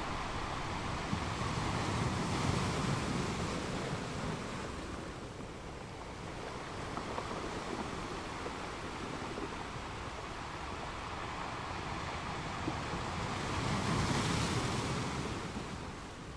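Sea waves washing in at the shore, a steady wash that swells twice, the louder surge coming near the end.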